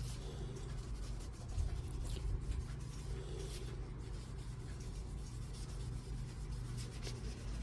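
Makeup brush rubbing ink along the paper edges of a handmade journal, soft scratchy brushing strokes, over a steady low hum.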